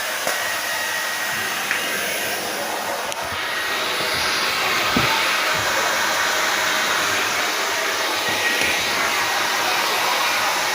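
Hair dryer blowing steadily, a little louder from about four seconds in.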